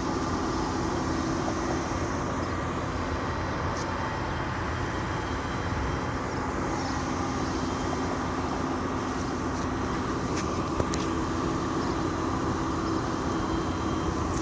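Steady outdoor vehicle drone with a constant low hum and no single event standing out.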